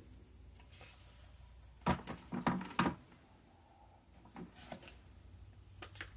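Tarot cards being handled and set down: a few light, sharp taps and clicks in small clusters, about two seconds in, again near three seconds, and twice more later.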